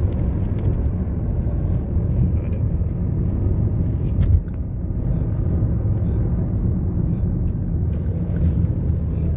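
Car driving on a mountain road, heard from inside the cabin: a steady low engine and road rumble, with a brief knock about four seconds in.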